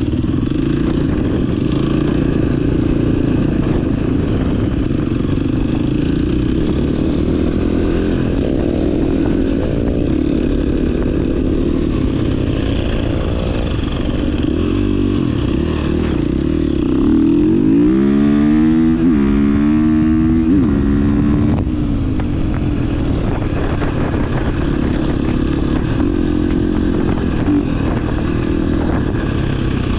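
Dirt bike engine running steadily. A little past halfway it revs up in several quick rising sweeps, then settles back.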